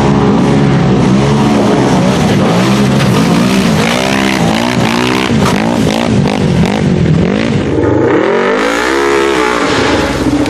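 Off-road vehicle engine running hard and revving up and down repeatedly, its pitch rising and falling in quick swoops. It drops away about eight seconds in, then climbs again.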